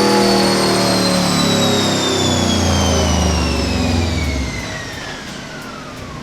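Turbocharged Subaru EJ205 flat-four running on a chassis dyno as it comes off a run. The engine note fades away about four and a half seconds in, while a high whine falls steadily in pitch as everything spins down.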